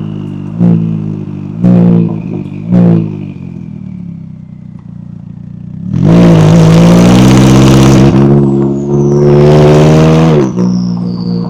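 McLaren 570S twin-turbo V8 blipped three times in quick succession, then dropping to a low idle. About six seconds in it is revved hard and held for about two seconds; after a brief dip it is revved hard again, and it falls back near the end. A faint whistle falls in pitch beneath the engine.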